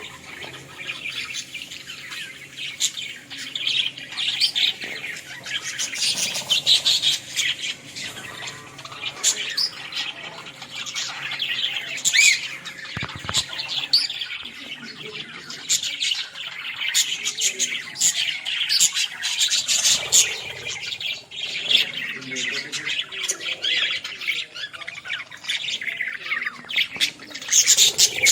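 A flock of budgerigars chattering, with many short squawks and chirps overlapping without a break.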